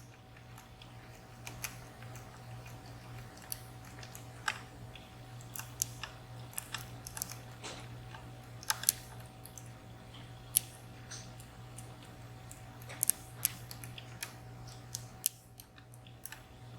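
Dimple lock pick working the pins of a VSR high-security dimple lock: irregular small metallic clicks and scrapes as pins are pushed and set. A low steady hum runs underneath.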